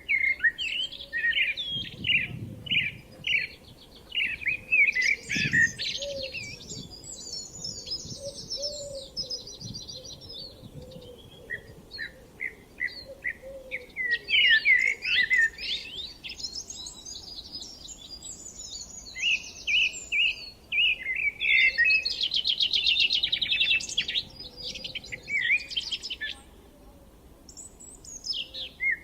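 Songbirds singing: long phrases of quick chirps and rapid trills, coming in bursts with short pauses between them.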